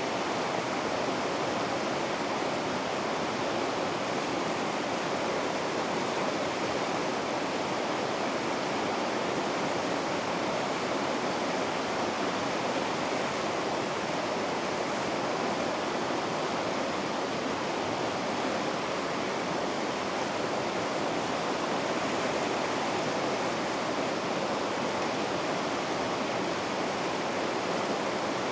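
Water rushing steadily through river rapids, an even, unbroken roar of whitewater.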